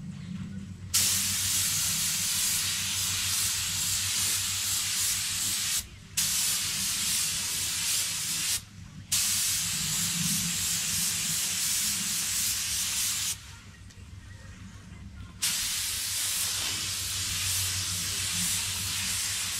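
Air-fed paint spray gun hissing in four long passes, with the trigger let off briefly between them, over a low steady hum: colour being sprayed onto a repair.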